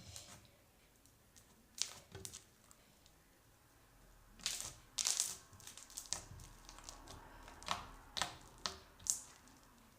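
Crunchy slime being squeezed and pressed by hand, giving a string of irregular crackling crunches that come thicker in the second half.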